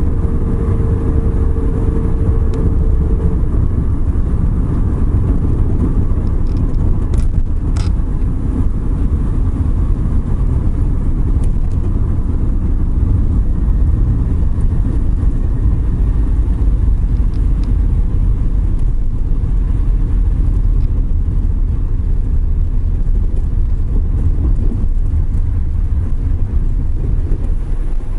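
Suzuki Every Wagon kei van driving on a wet road: a steady low rumble of engine and tyre noise. Two brief clicks about seven seconds in.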